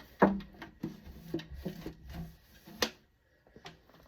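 Scattered knocks and rubbing from wiping out a refrigerator's interior. The sharpest knock comes about a quarter second in, and a few lighter ones follow.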